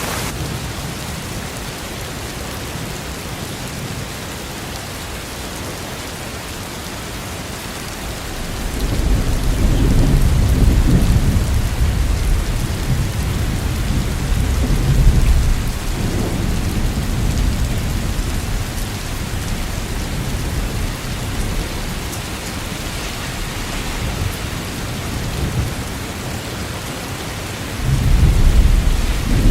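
Steady rain with rolling thunder. A long low rumble swells about a third of the way in and dies away over several seconds, and another begins near the end.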